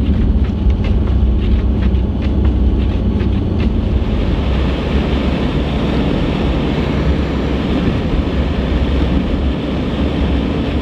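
A van driving: a steady low engine and road rumble, with a hiss of tyre and wind noise that grows louder about four seconds in.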